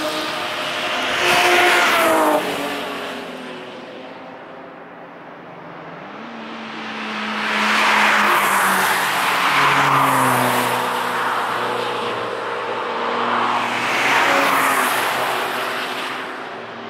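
Several cars passing one after another at speed on a race circuit: engines under hard throttle swell in as each car approaches and fade as it goes past. The loudness drops suddenly about two and a half seconds in.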